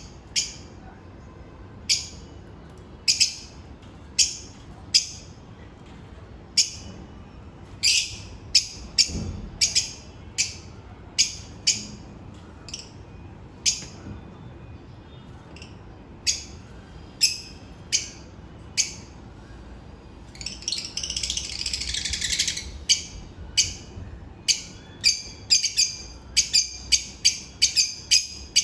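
African lovebirds calling: short, sharp, high-pitched chirps repeated about once a second, breaking into a stretch of continuous chattering about two-thirds of the way through, then quicker calls near the end.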